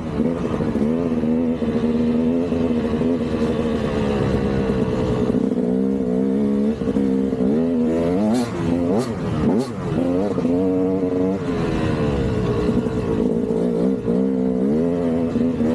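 KTM 200 single-cylinder two-stroke dirt bike engine being ridden, its pitch rising and falling over and over as the throttle is worked on and off. A few short sharp ticks come about halfway through.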